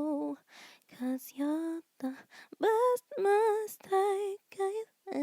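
A woman singing unaccompanied: short sung phrases with vibrato and sliding pitch, no clear words, broken by brief pauses.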